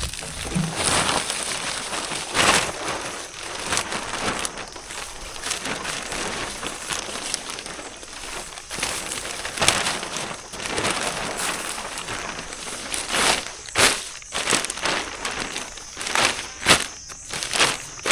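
Dry leaves and brush crunching and crackling, with a run of sharper snaps in the last few seconds.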